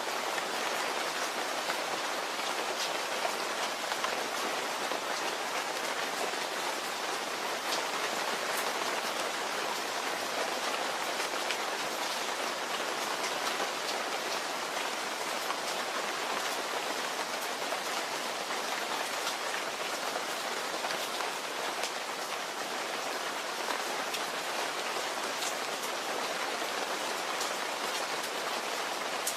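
Steady rain falling on a surface, a constant hiss dotted with the fine ticks of individual drops.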